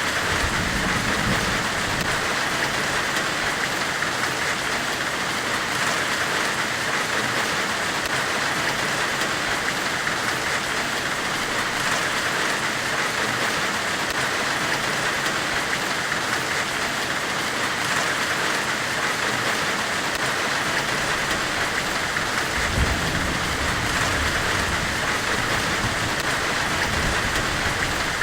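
Steady white-noise hiss, brightest in the upper middle range, with a low rumble swelling briefly near the start and again about 23 seconds in.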